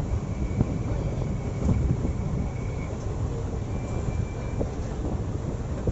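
Passenger train coach running along the track: a steady low rumble of wheels on rails with a few sharp knocks. A faint high-pitched squeal comes twice, once in the first half and briefly again past the middle.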